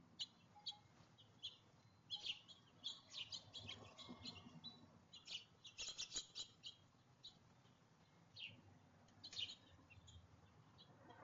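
Faint, short, high chirps from small songbirds, coming in quick clusters with gaps between them.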